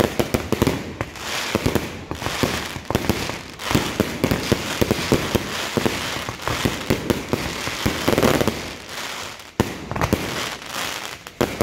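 Close-range fireworks from a multi-shot consumer cake: rapid launch pops and bursts with dense crackling stars, almost without a break, with a short lull about ten seconds in.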